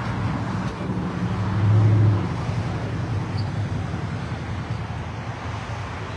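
A car engine running with a steady low hum that grows louder for a moment about a second and a half in, over traffic noise.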